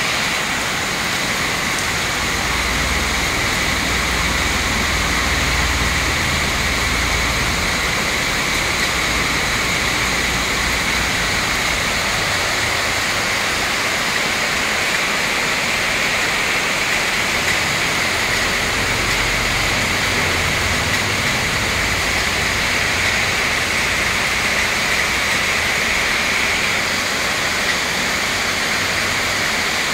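Heavy rain pouring down in a steady hiss onto tiled paving and thick garden foliage.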